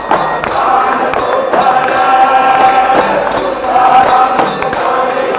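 Devotional bhajan music from a jagran: a long-held melodic line, sung or played, over hand percussion striking through it.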